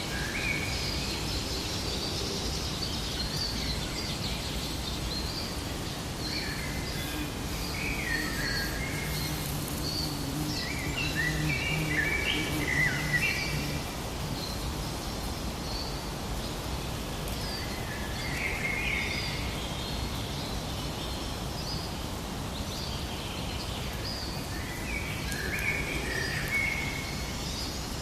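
Forest ambience: several birds chirping and warbling over a steady background hiss, with the loudest bursts of song around the middle.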